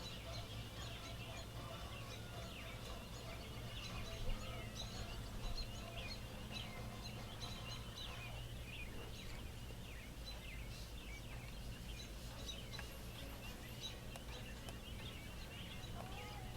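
Many small birds chirping and twittering in the background, with quick short calls overlapping throughout, over a low steady hum.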